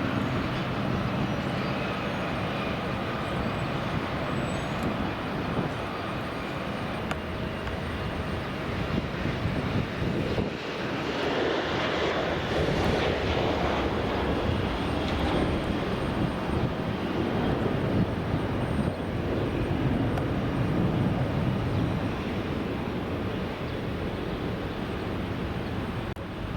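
Jet airliner's engines at takeoff power on the departure roll, a steady roar that swells about halfway through and eases a little near the end.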